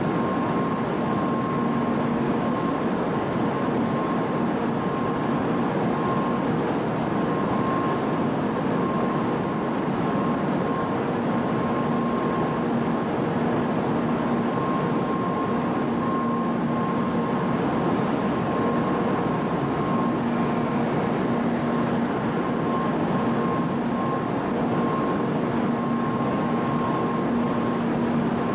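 A stationary N700-series shinkansen train idling at the platform, its onboard equipment running as a steady whirring hum. A faint high whine fades in and out over it.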